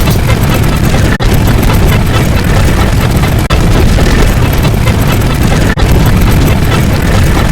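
Loud, dense wall of layered sound effects dominated by deep rumbling booms, with a brief cut-out about every two and a half seconds.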